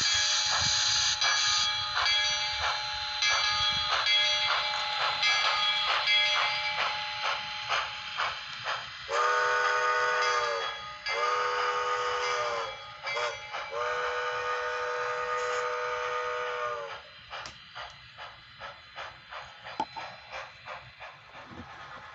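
Sound decoder in a Bachmann HO scale steam locomotive plays chuffing over a steady hiss through its small onboard speaker. About nine seconds in it sounds its steam whistle in four blasts, long, long, short, long: the grade-crossing signal. After the whistle the chuffing carries on more quietly.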